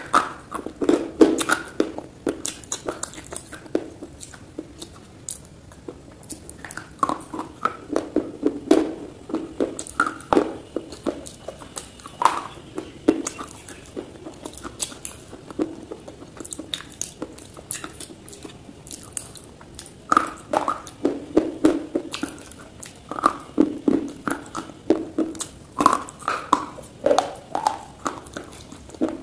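Crunching and chewing of slate-pencil sticks: sharp, crisp cracks as they are bitten, coming in clusters, with quieter chewing between.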